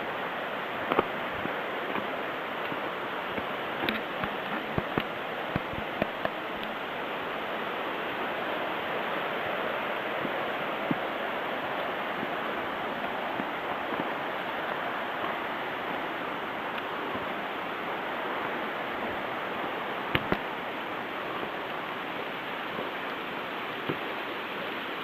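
Mountain stream rushing steadily, with a few short sharp clicks or knocks over it, the loudest about a second in and a close pair about two-thirds of the way through.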